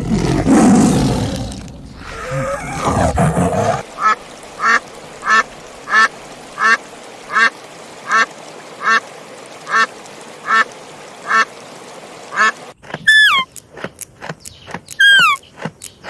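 A low animal roar for the first few seconds. It is followed by a duck quacking in a steady run of about a dozen evenly spaced quacks, roughly one and a half a second. Near the end come sharp, high, falling chirps.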